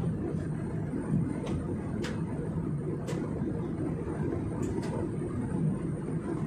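Steady low rumble of airliner cabin noise in flight, with a thin high whine and a few light clicks.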